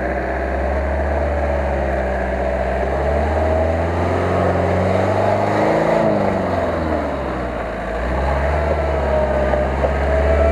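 Asia Rocsta 4x4's engine labouring as it ploughs through deep mud and water, revs rising and falling about halfway through, with a wavering high whine above it.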